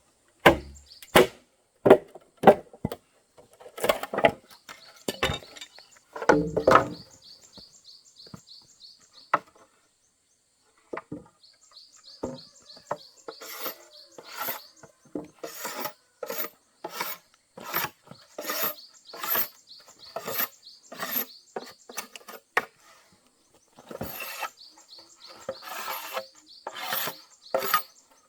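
Wooden material being struck again and again with a hand tool: sharp, evenly spaced knocks about two a second at first, a stretch of rubbing and scraping on wood, then a long steady run of knocks through the second half.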